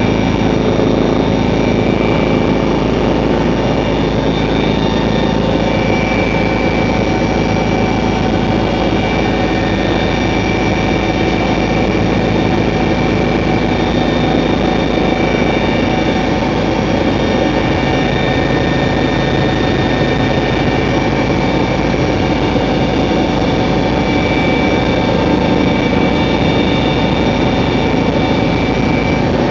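Helicopter running steadily in flight: a loud, unbroken engine and rotor drone with constant high whining tones on top.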